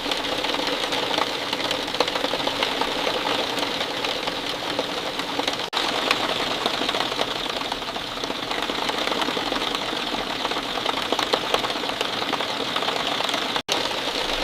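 Steady rain falling, a dense, even patter of many small drops. The sound cuts out for an instant twice.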